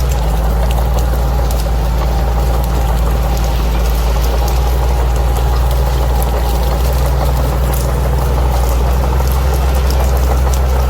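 Bulldozer's diesel engine running at a steady pitch, with scattered sharp clicks and ticks over it.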